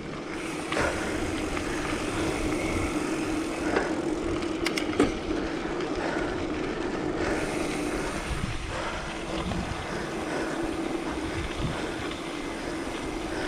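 Mountain bike riding on a dirt road: steady tyre rumble and wind noise on the microphone, with a constant low hum and a couple of sharp clicks about five seconds in.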